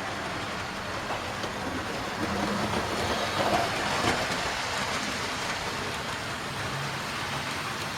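Model train hauling a rake of tanker wagons along the layout track, a steady rumble and clatter of wheels and motor that swells as it passes close, about two to four seconds in, then eases off.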